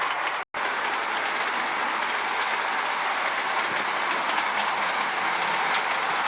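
O scale model steam locomotive, built on a Lionel Berkshire chassis, running with its metal passenger cars along two-rail track: a steady whir of motor and wheels with light clicking over the rail joints. The sound drops out for an instant about half a second in.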